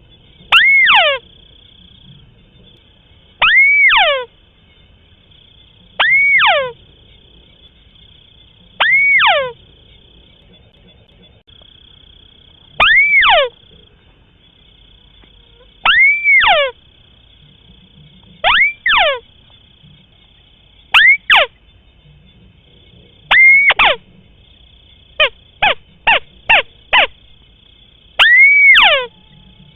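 White-browed crake call played repeatedly as a lure: loud calls that sweep up and then slide steeply down, often doubled, repeated every two to four seconds. A quick run of five short calls comes about two-thirds of the way in. A faint steady high tone runs beneath.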